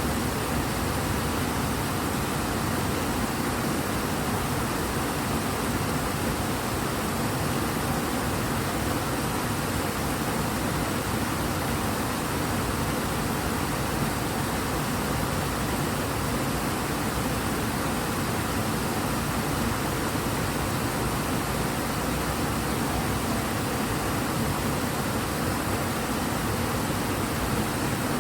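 River water rushing strongly in a steady, even roar of flowing water, with no breaks or changes.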